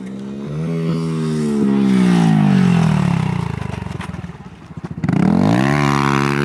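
Pit bike engine revving: the pitch climbs, then slides down and fades over a few seconds, and the engine revs up hard again about five seconds in.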